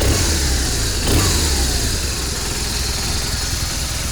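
Motorcycle engine running just after a cold start on ether following winter storage, revved twice about a second apart, its pitch falling after each rev.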